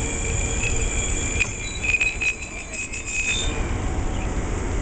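Amtrak passenger train squealing from its wheels and brakes at the platform: high, steady, shrill tones with scattered clicks over a low rumble. The squeal dies away about three and a half seconds in.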